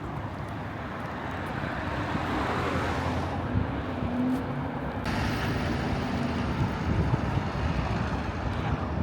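Road traffic passing, its tyre noise swelling about two to three seconds in, over a low rumble of wind on the microphone.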